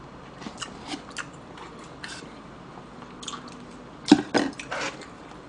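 Close-up chewing and mouth smacks of someone eating, with scattered soft clicks. About four seconds in come a few louder sharp clicks and scrapes of chopsticks against a plastic food container.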